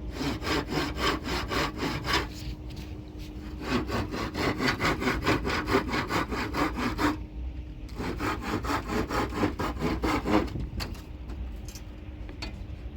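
Handsaw cutting wood with quick back-and-forth strokes, about four or five a second, in three runs with short pauses between. The sawing stops about two-thirds of the way in, leaving a few light knocks.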